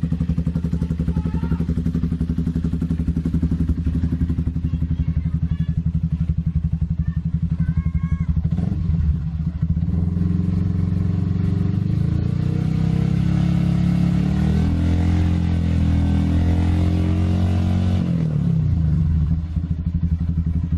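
Yamaha R15 V3 motorcycle's single-cylinder engine idling through its exhaust with an even pulse. About nine seconds in it is revved up and held at rising revs for several seconds, then drops back to idle near the end.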